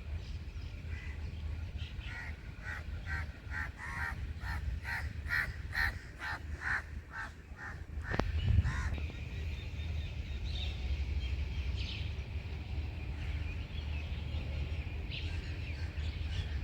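A bird calling in a quick series of harsh calls, about two or three a second, for several seconds, then a few scattered calls. Under it runs a steady low rumble, and there is one thump about halfway through.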